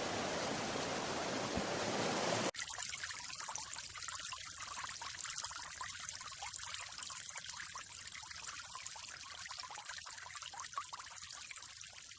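A steady rushing noise cuts off suddenly about two and a half seconds in. It is followed by a fainter, uneven trickle of running water.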